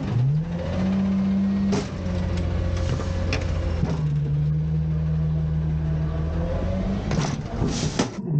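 Autocar garbage truck's diesel engine revving up and holding its revs to drive the hydraulics of a Heil Freedom side-loader arm as it dumps a bin, the pitch easing and climbing again. About four sharp clanks of the bin and arm sound over it.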